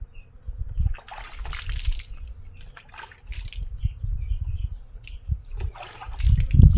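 Water splashing and dripping as a dog is washed by hand, in several short splashes.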